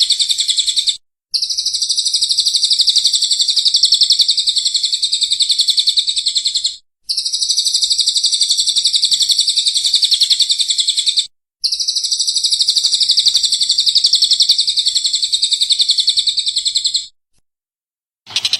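Songbird masteran recording: a small bird's fast, continuous, high-pitched twittering in long phrases of about four to six seconds, each breaking off abruptly into a short gap. Near the end it stops for over a second before starting again.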